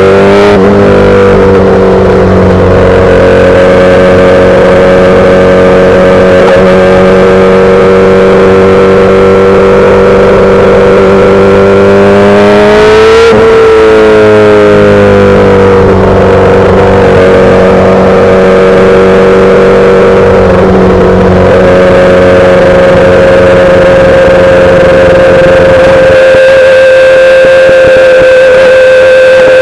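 2008 Yamaha R6's 600 cc inline-four engine through a full SC-Project exhaust, running loud at a steady engine speed. About halfway through its pitch briefly rises and falls, and near the end the deeper part of the sound drops away while a steady tone remains.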